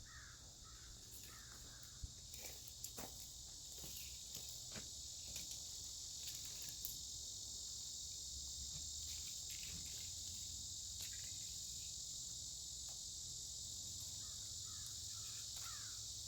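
Faint, steady high-pitched insect chorus, with a few scattered light knocks and short bird chirps near the start and near the end.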